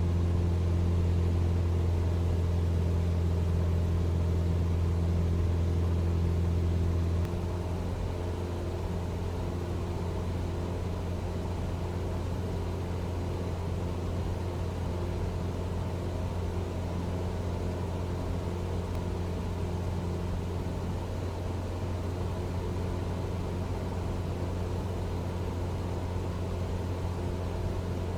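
Cessna 172 engine and propeller droning steadily in flight. About seven seconds in the drone drops noticeably in level and stays lower and steady after that.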